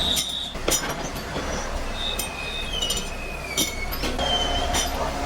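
Metalworking machinery running with a steady low hum, high-pitched metal-on-metal squeals that slowly fall in pitch, and several sharp metallic clinks.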